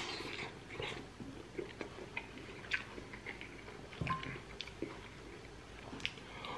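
Close-up mouth sounds of biting and chewing smoked pork rib: irregular wet smacks and small crackles. A short clink of a spoon against the glass bowl about four seconds in.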